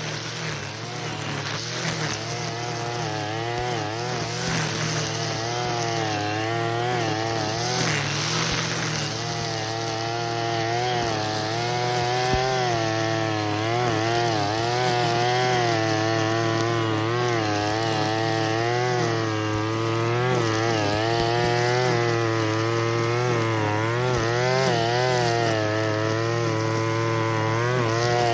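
Engine-powered brush cutter with a nylon-cord trimmer head cutting weeds, the engine's pitch rising and falling as the spinning cord meets the grass.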